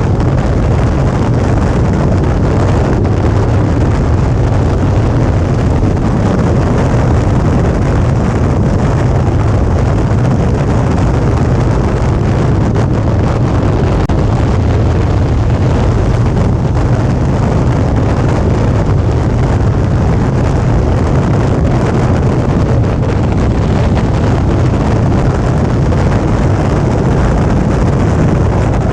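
Steady wind rush on the action camera's microphone, mixed with the Suzuki V-Strom 650's V-twin engine running at an even cruising speed, with no revving or gear changes.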